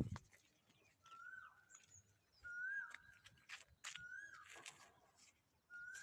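A bird calling over and over, a short call that rises and then drops, about once every second and a half, with fainter high chirps from other birds. A thump right at the start.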